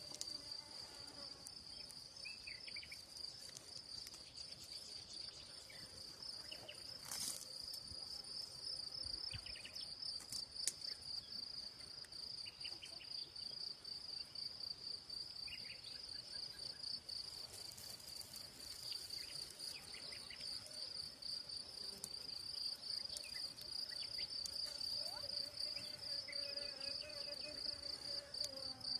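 Field insects trilling steadily on one high pitch with a fine pulsing beat, with faint short chirps scattered through it.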